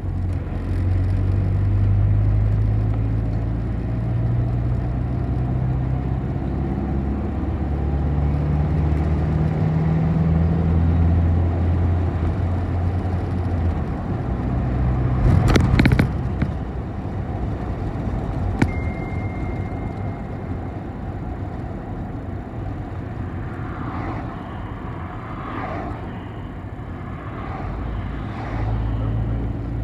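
City bus running on the road, its engine note rising and falling as it pulls away and slows. A couple of sharp knocks come about halfway, followed shortly by a brief high beep.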